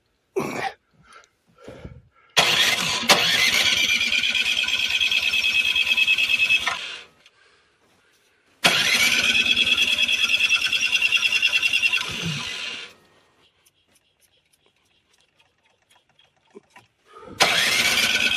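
An engine being cranked by an electric starter in three separate tries, each a few seconds long, without catching. Each try begins with a whine that rises and then holds steady over a fast, even chugging, then stops abruptly. A few light knocks come just before the first try.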